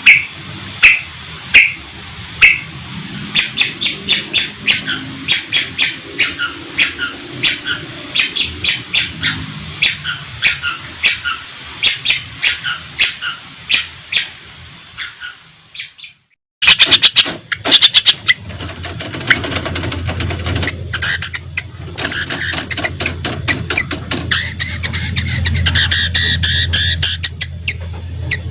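Long-tailed shrike (cendet) giving sharp, harsh calls about twice a second. About 16 seconds in, the sound cuts out for a moment and comes back as a faster, denser run of calls.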